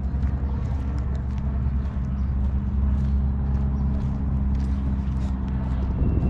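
A steady low engine hum with heavy wind rumble on the microphone, and faint scattered ticks of footsteps on a path.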